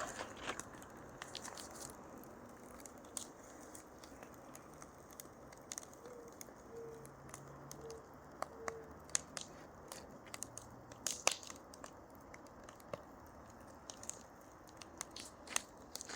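Wood fire crackling slowly: sparse, irregular sharp pops and snaps over a faint steady hiss.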